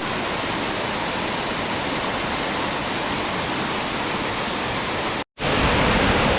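Waterfall rushing steadily. It cuts out briefly about five seconds in and comes back a little louder.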